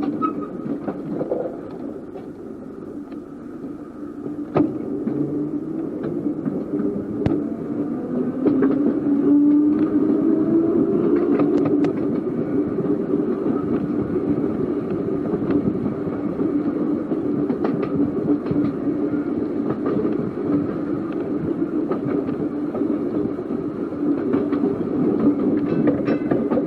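Seaton Tramway narrow-gauge electric tram running along its track, with a steady motor hum. The motor whine rises in pitch as the tram picks up speed, starting about eight seconds in. Sharp clicks come from wheels passing over rail joints.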